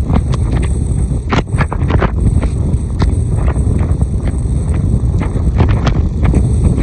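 Strong wind buffeting the microphone at a rough sea: a heavy low rumble broken by frequent short crackles and knocks.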